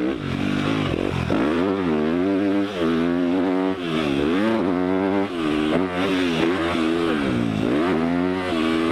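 Yamaha YZ250 two-stroke motocross bike ridden hard, the engine revving up and dropping back again and again as the throttle is opened and shut around the track.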